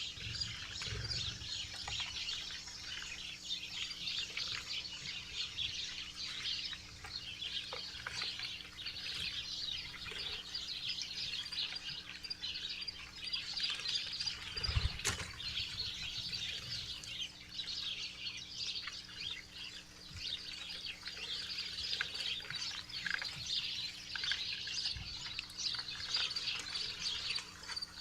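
Many small songbirds chirping rapidly and continuously at a backyard feeder, with a single sharp knock about halfway through.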